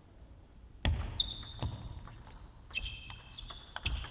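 Table tennis rally starting about a second in: sharp clicks of the celluloid-type ball off rackets and table, short squeaks of shoes on the court floor, and three heavier thuds of footwork.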